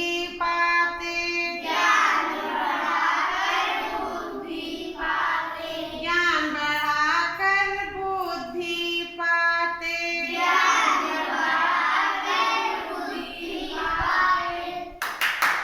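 Child singing a Hindi children's rhyme in held, gliding phrases. Clapping starts near the end.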